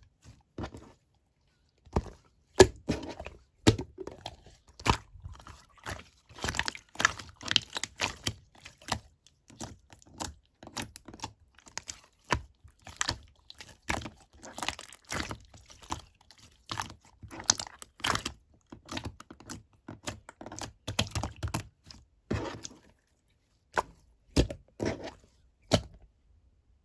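Clear slime being pressed and squished by hand, giving a dense run of irregular sticky pops and clicks, with brief pauses.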